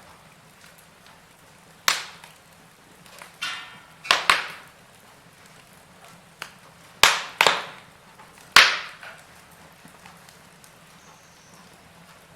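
Wood fire in a fireplace crackling over a faint hiss, with sharp pops of burning wood, each dying away quickly; the loudest pops come in a cluster a little past the middle.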